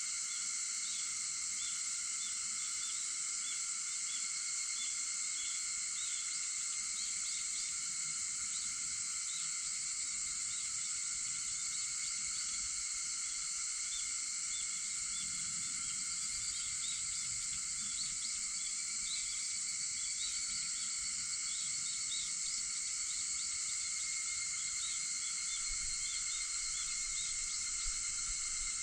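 Dense chorus of cicadas: a steady, unbroken high-pitched drone, with many faint short chirps scattered over it.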